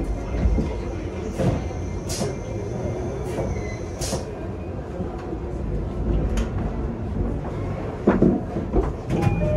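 Cabin sound of a JR commuter train rolling slowly: a steady low rumble with scattered sharp clicks and knocks, about half a dozen spread through.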